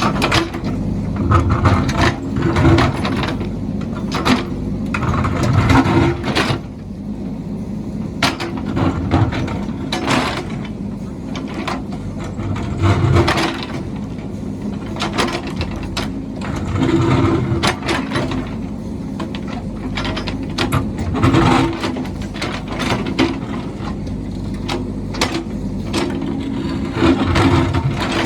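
Heavy construction machine's engine running, with frequent metallic clanks and knocks from the working machine and the engine surging every few seconds.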